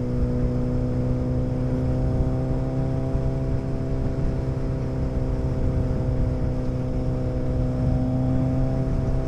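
Motorcycle engine running steadily at an even cruising speed, its pitch holding level, with wind and road noise underneath.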